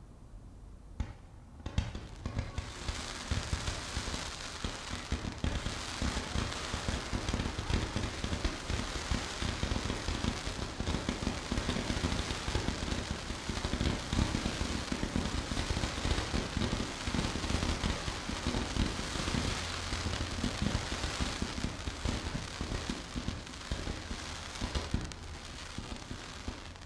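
Fireworks crackling densely and without a break, a steady stream of tiny pops and sizzles from a column of sparks shooting up from the ground. The crackle starts about two seconds in.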